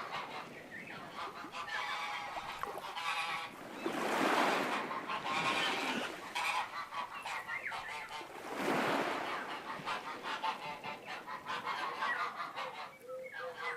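Geese honking over and over, calls overlapping one another.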